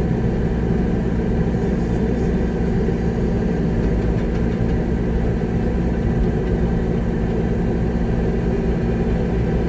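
Concrete mixer truck's diesel engine running steadily, heard from inside the cab.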